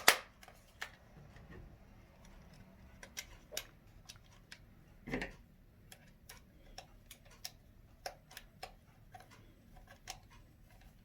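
Scattered small plastic clicks and taps from handling a toy boat's remote control while AA batteries are fitted, with a loud click at the very start and another about five seconds in.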